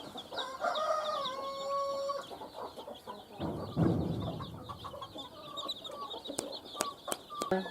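A brood of baby chicks peeping constantly, with an adult chicken giving a longer held call about half a second in. A dull low thud comes about three and a half seconds in, and a few sharp clicks come near the end.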